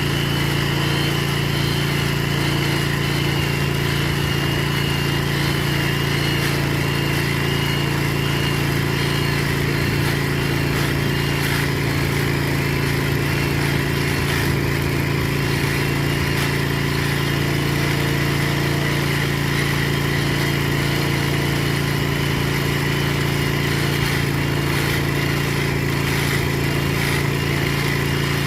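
Engine-driven rail grinder running steadily as it grinds a rail weld smooth: a constant engine drone with a high, slightly wavering whine over it.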